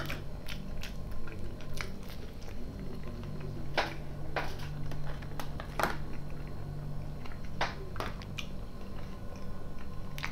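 Close-miked chewing and biting of a man eating, with sharp wet mouth clicks every second or so. A steady low hum runs underneath.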